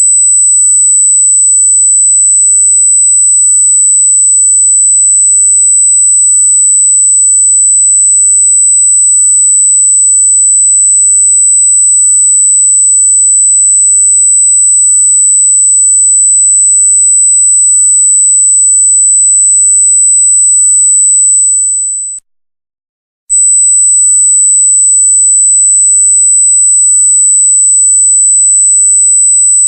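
Loud, steady, very high-pitched electronic sine tone. About three quarters of the way through it fades out, drops away for about a second, then comes straight back at full strength.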